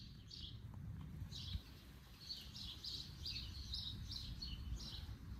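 A bird chirping: a string of short, high chirps, a few at first and then several a second from about two seconds in, over a faint low rumble.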